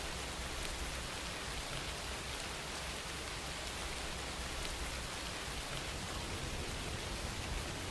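Steady rain falling, an even hiss of rain with no breaks or single events.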